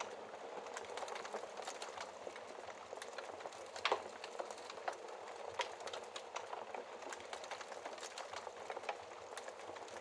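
Wood fire burning in a fireplace: a steady crackle and hiss with scattered sharp pops, the loudest about four seconds in.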